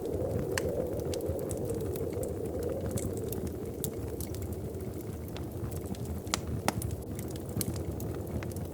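Wood fire crackling in a fireplace: irregular sharp pops and snaps, a few louder ones in the second half, over a steady low rumble.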